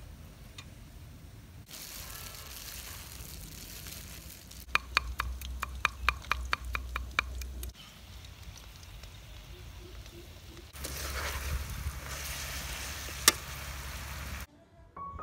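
Short cooking clips cut together: a hiss, then a run of sharp taps at about three a second, then oil sizzling in a wok with meat frying near the end.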